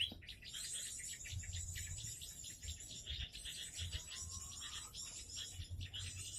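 Small garden birds chirping rapidly and repeatedly, over a steady thin high insect drone, with a faint rising whistle about four seconds in.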